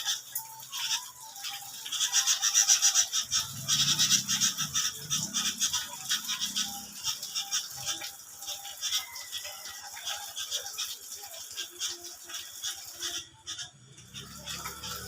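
Black-winged starling bathing, its wings fluttering rapidly in the water and splashing. The fluttering comes in runs, busiest in the first half.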